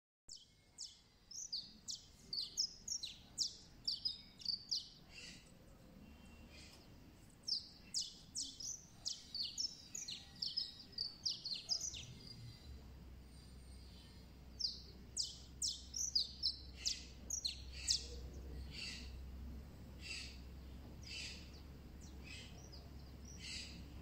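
Bird chirping in quick runs of short, high notes, in three busy bouts followed by slower, fainter single calls. A low hum comes in about halfway through.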